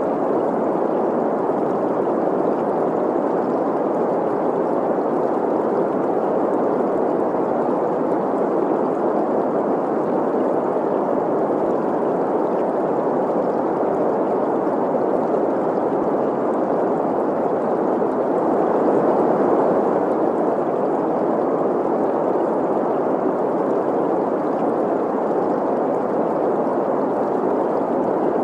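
Steady green noise, an even hiss centred in the middle range, blended with a flowing, gurgling stream.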